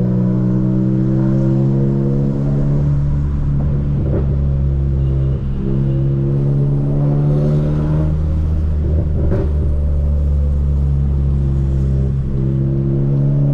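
Volkswagen Polo GTS (Stage 2 tune, sport exhaust) with its turbocharged 1.4 TSI four-cylinder engine droning at a steady, light-throttle cruise, its pitch drifting slowly. The sound dips briefly about five seconds in and again near the end, and a few short sharp clicks come through.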